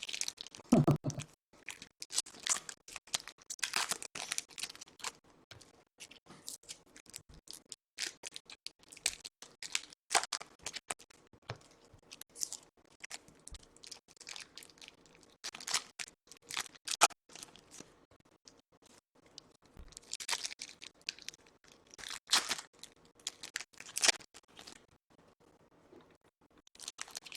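A stack of Topps Chrome baseball cards being flipped through by hand: quick, irregular card-on-card slides and flicks, coming in clusters a few seconds apart.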